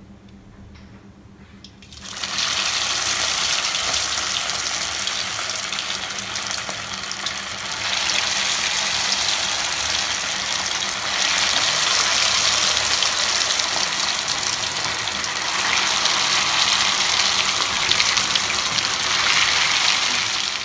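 Vermicelli-coated veg rolls deep-frying in hot oil: a loud, steady sizzle that starts about two seconds in. It swells louder several times as more rolls are dropped in.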